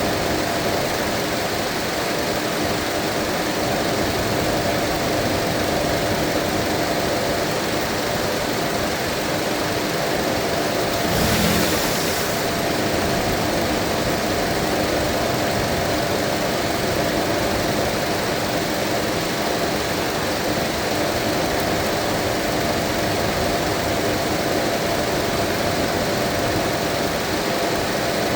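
Mazda 2.5-litre engine idling steadily while its cooling system is bled of air, with a brief rush of noise about eleven seconds in.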